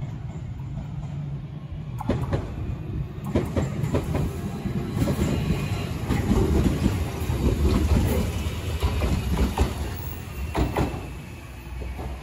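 Shizuoka Railway A3000-series electric train passing close by: a steady low rumble with repeated clacks of the wheels over the rail joints. It grows louder as the cars go by and drops off near the end.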